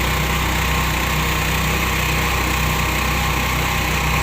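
Boat engine running steadily at an even speed, a constant low drone with hiss above it.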